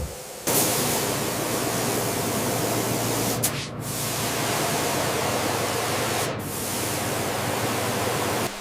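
Water rushing in a steady spray, like a rinse jet, with two brief dips in the middle.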